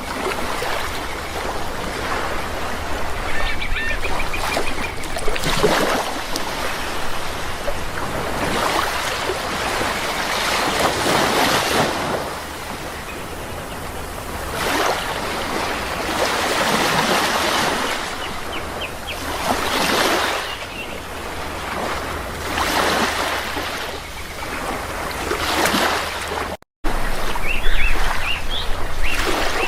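Sea waves washing in, the surf swelling and falling every few seconds, with a few short bird calls over it. The sound cuts out for an instant near the end, then comes back louder.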